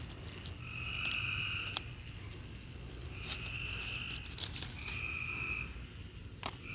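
Dry pea vines and pods crackling and snapping as they are picked by hand, in scattered sharp clicks. Behind them, a night-calling animal gives a steady call about a second long, repeated every two seconds or so.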